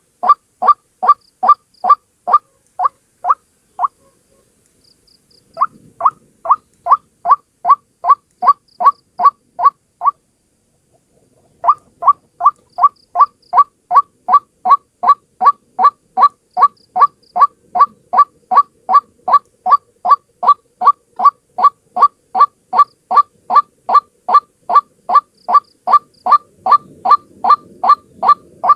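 White-breasted waterhen calling: a long, even run of the same loud note repeated about two and a half times a second, broken by two short pauses.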